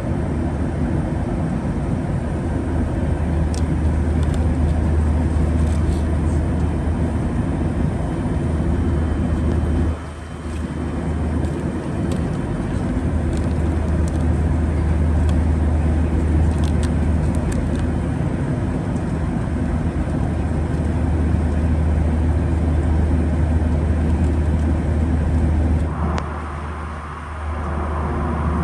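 Steady cabin noise inside a Boeing 737-800 in flight: a low hum and a broad rush of engine and airflow noise, dipping briefly about ten seconds in and again near the end.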